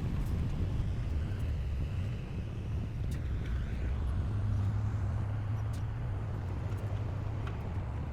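Heavy diesel engine of earthmoving machinery running steadily, low-pitched, with a few short sharp knocks.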